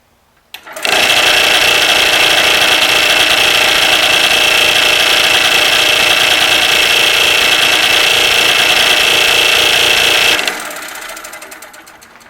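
Craftsman 113.207650 scroll saw with its blade newly installed and tensioned, switched on and running steadily for about ten seconds. It is then switched off and winds down, fading away.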